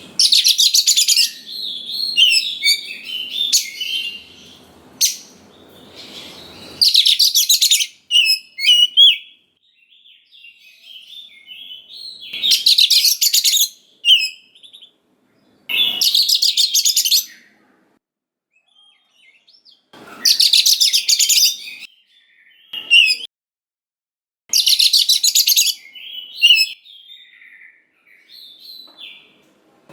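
Oriental magpie-robin (kacer) singing vigorously. Loud, rapid bursts of song about a second long come roughly every four seconds, with softer chirps and whistled notes in between.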